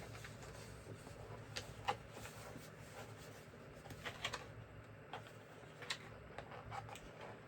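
Scattered small clicks and taps of screwdriver bits and their plastic holder being handled, a few sharp ticks a second or so apart.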